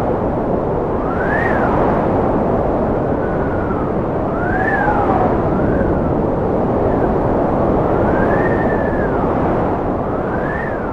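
Strong wind blowing: a steady rush with whistling tones that rise and fall in pitch several times.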